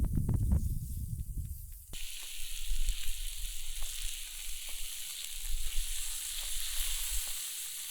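Food frying on a campfire barbecue hotplate: a steady high sizzle with faint crackles. Wind rumbles on the unshielded microphone for about the first two seconds, then drops away suddenly, leaving the sizzle clear.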